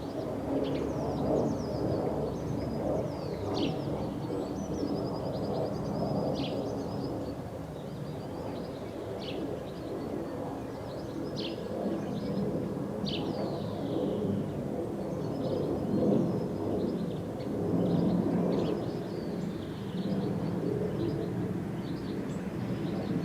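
Birds chirping and calling in short, high notes, with quick downward sweeps and a few rapid trills, over a steady low rumble.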